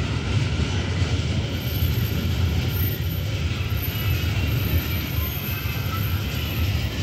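Open-top freight wagons of a long train rolling past on the rails: a loud, steady rumble of steel wheels on track.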